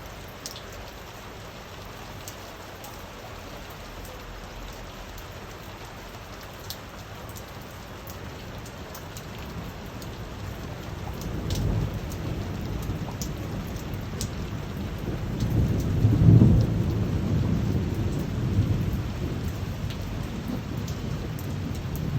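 Steady rain with scattered sharp drops. About halfway through, a long low rumble of thunder rolls in, peaks, then slowly fades back under the rain.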